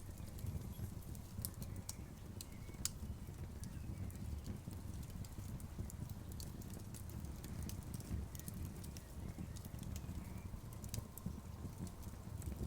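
Outdoor bonfire crackling softly: a steady low rumble of burning with irregular sharp pops and snaps scattered through it.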